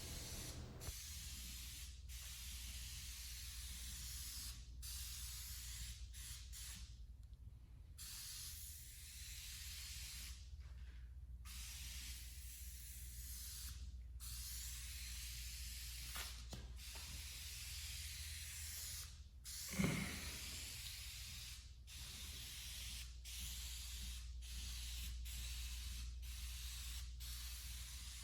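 Aerosol can of Alcantara dye spraying in long hissing passes, broken by many short pauses where the nozzle is let off. A brief louder knock comes about twenty seconds in.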